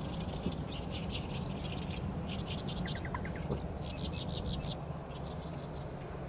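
Wild birds chirping and singing, with a quick trill of about five notes about three seconds in, over a low steady background rumble.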